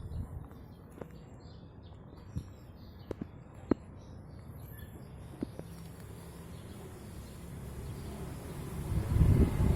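Kawasaki Binter Merzy KZ200's single-cylinder four-stroke engine idling low and steady, with a few sharp clicks over it, then revving up near the end.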